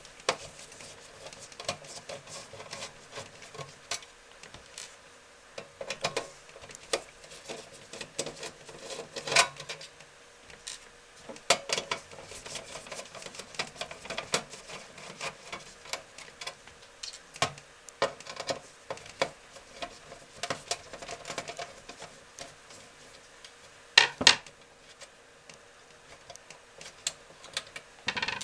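Irregular metal clicks, rattles and knocks of a desktop PC's system unit and power supply unit being taken apart by hand, with two sharper loud knocks, one about nine seconds in and one late on.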